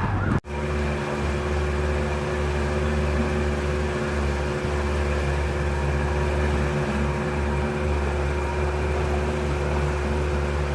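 Boat motor running steadily with a low drone and a constant hum. The sound starts after a brief break in the recording about half a second in.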